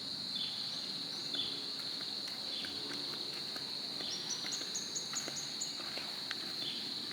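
Insects droning steadily at one high pitch, with birds giving short chirps every second or so and a quick run of high notes about four seconds in.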